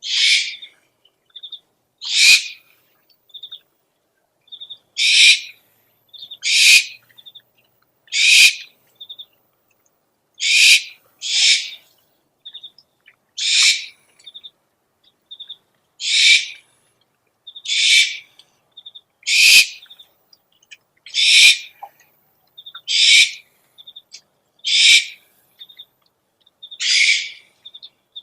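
Owl calls from a lure recording: a harsh, hissing screech repeated about every one and a half to three seconds, fifteen times, with short high peeps between the screeches.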